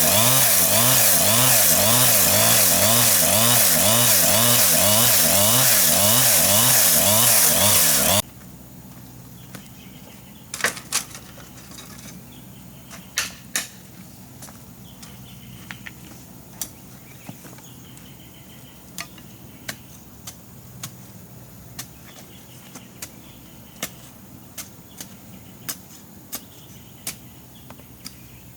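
Chainsaw running at high speed with its pitch wavering, then cutting off suddenly about eight seconds in. After that a quiet outdoor background with sharp wooden knocks at irregular intervals, about one a second.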